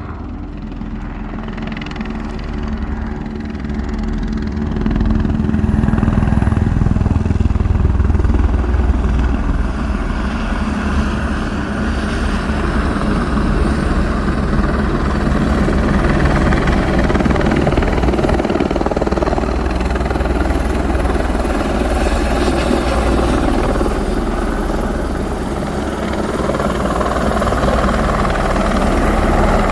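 Water-bombing helicopter's rotor beating, growing louder over the first several seconds as it comes close, then running steadily.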